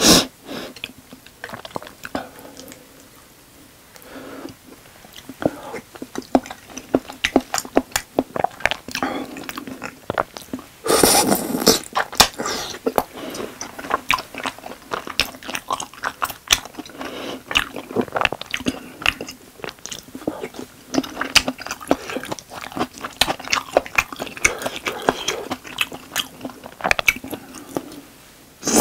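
Close-miked chewing of tteokbokki, chewy Korean rice cakes in a thick spicy sauce: wet mouth clicks and smacking, irregular throughout, with one louder sound about a second long around eleven seconds in.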